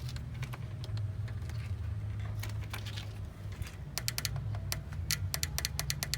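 Rapid, irregular small clicks that come faster over the last couple of seconds, over a steady low hum.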